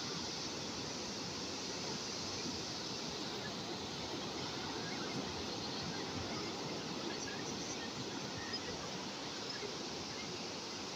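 Steady wash of calm sea waves, an even rushing noise without distinct breaks.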